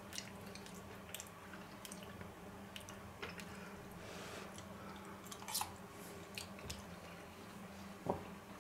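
Faint chewing and mouth sounds of a person eating, with scattered light clicks of cutlery, over a steady low hum. A louder click comes about five and a half seconds in, and a brief voice-like sound near the end.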